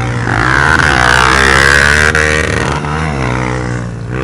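Motocross dirt bike engine revving hard: the pitch climbs and holds high, drops about three seconds in, then rises again briefly near the end.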